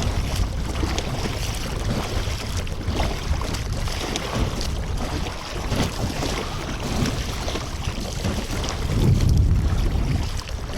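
Wind buffeting the microphone in a dull, uneven rumble, with a stronger gust about nine seconds in.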